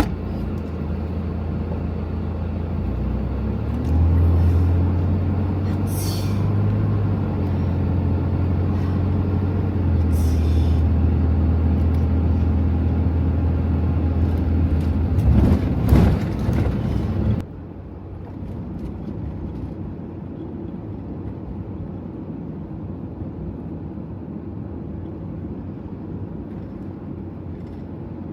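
Toyota Hiace van's engine running as it drives off, the hum rising about four seconds in and holding steady. About two-thirds of the way through it cuts abruptly to a quieter, duller steady hum.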